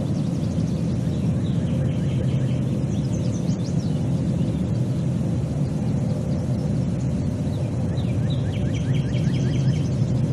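A steady low rumbling noise throughout, with a bird singing two quick runs of repeated high notes, one early and one near the end.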